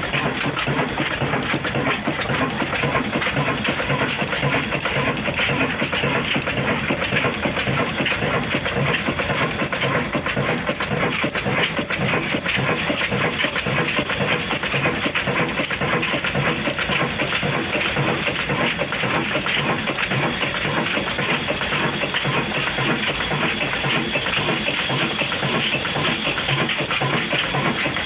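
Old Ruston diesel oil engine running steadily, with a regular beat.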